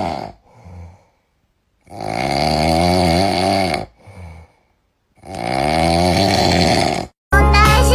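An animal snoring: two long, wavering snores of about two seconds each, with a short softer breath after each.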